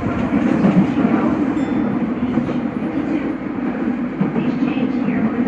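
Nagoya Municipal Subway Higashiyama Line 5050-series train running, a steady rumble of wheels on the rails and traction equipment, heard from inside the front car.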